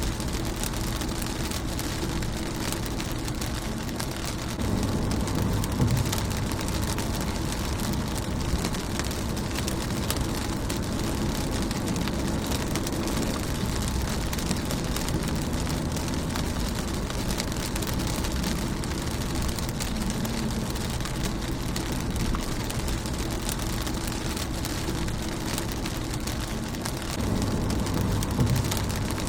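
Steady rain falling on a car's windshield and body, a dense even hiss of drops. A low rumble swells about five seconds in and again near the end.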